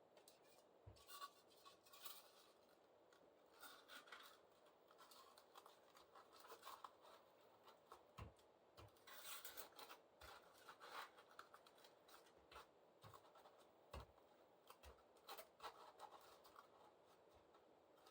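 Faint, irregular scratching and rubbing with scattered light knocks: hand work on materials, pieces being handled and pressed into place.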